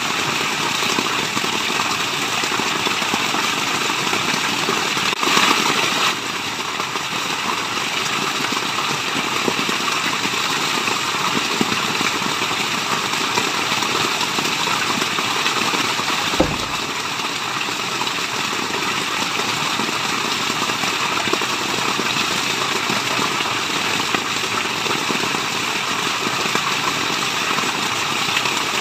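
Steady rushing water: a dense, even hiss of falling water, slightly louder for a moment about five seconds in, with one brief low thump about halfway through.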